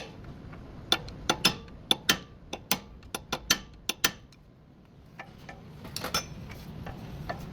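A series of sharp, irregular metallic clicks and clinks, about a dozen over three seconds, a short lull, then a few more about six seconds in.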